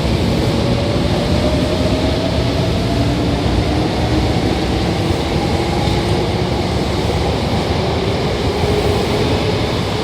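Hankyu 5100-series electric train accelerating out of the station: a motor whine rising slowly in pitch over the steady rumble of wheels on rail.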